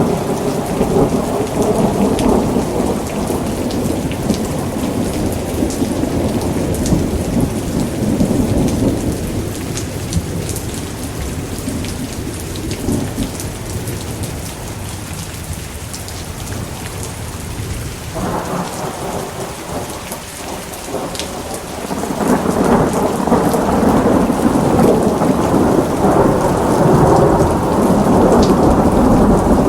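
Thunderstorm: steady heavy rain with rolling thunder. A long rumble dies away over the first two-thirds, and another roll of thunder swells up about three-quarters of the way through.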